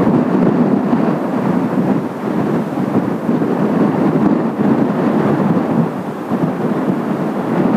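Gale-force wind buffeting the microphone: a loud, continuous low rush that swells and eases with the gusts.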